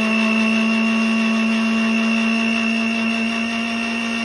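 Electric blender motor running steadily at one pitch, a hum with a thin high whine over it. The owner says the blender smells burnt and doesn't have enough power.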